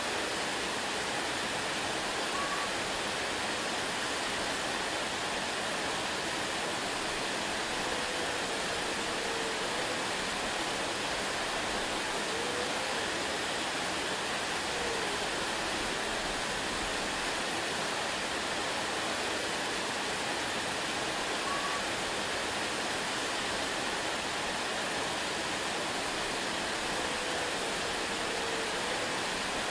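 Waterfall, a steady, even rush of falling water with no let-up, with a few faint short high notes now and then.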